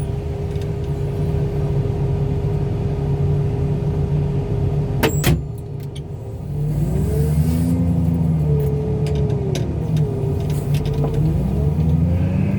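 Heavy machinery engine running steadily, with a sharp clank about five seconds in; the engine then dips briefly and revs up and down several times, not pushed to full throttle.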